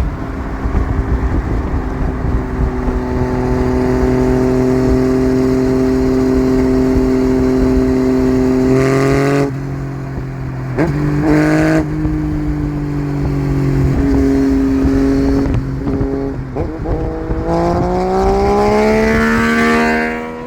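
Yamaha FZ-09's inline three-cylinder engine running on the road. It holds a steady pitch for several seconds, drops back and changes pitch about halfway through, and near the end climbs steadily as the bike accelerates.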